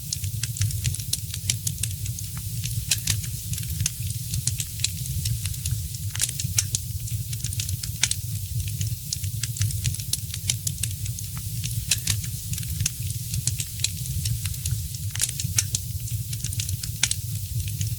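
Wood fire crackling in a fireplace: irregular sharp pops and snaps, several a second, over a soft hiss and a steady low rumble.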